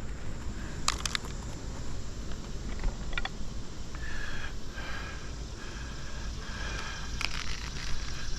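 A few light clicks and scrapes as brittle asphalt shingles are handled and lifted, over a steady low rumble.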